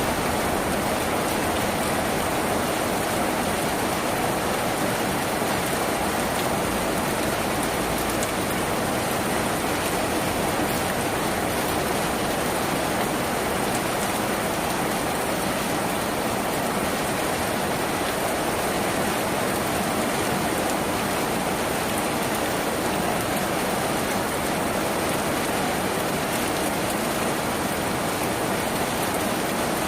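Steady, dense rain falling on a tin roof.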